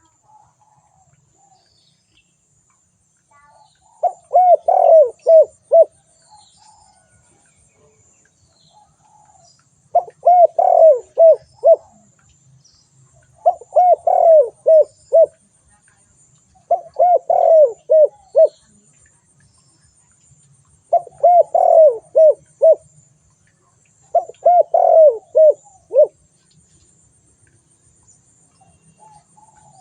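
Spotted dove cooing: six phrases a few seconds apart, each a quick run of several coos lasting about two seconds.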